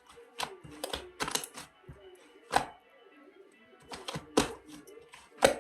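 Irregular sharp taps and knocks, about a dozen, the loudest three spaced out, over faint background music.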